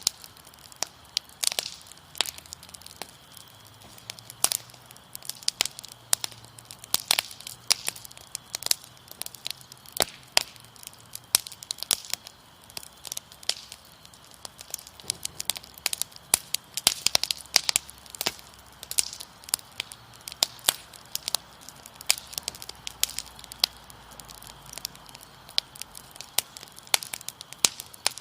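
Wood fire crackling, with frequent irregular sharp pops and snaps, and a faint steady cricket trill beneath.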